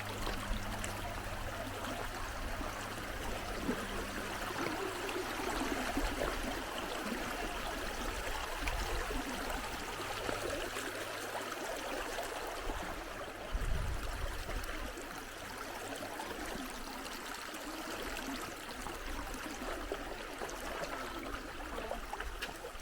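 Running river water, a steady rush, with a brief low thump a little past halfway.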